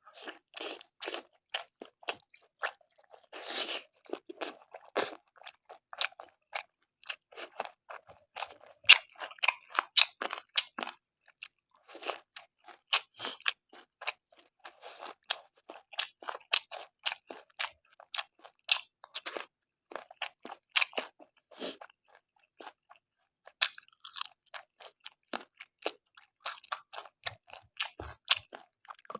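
Close-miked chewing and crunching of a mouthful of food, a dense run of short, crisp crunches and wet clicks of the mouth, a few of them sharper and louder.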